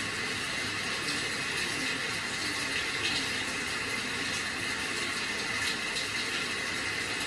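Steady rain, an even hiss of falling water with faint scattered drop patter.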